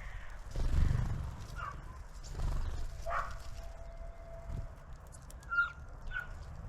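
Small birds at a garden feeder giving short chirps and calls, with one held whistle about three seconds in, over low thumps and rumbling.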